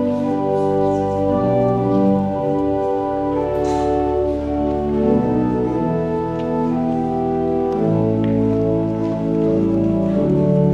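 Church organ playing slow, sustained chords, each chord held for a second or two before moving to the next.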